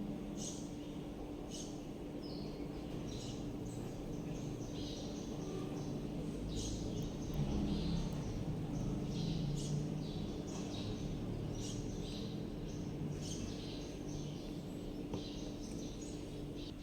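Small birds chirping in short, repeated calls over a steady low hum and outdoor background noise, with a low rumble swelling in the middle.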